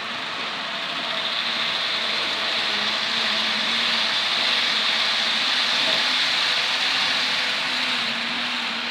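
Model train running on the layout's track: a steady rushing rattle of wheels on rail with a faint motor hum, growing louder through the middle and easing off near the end as it passes.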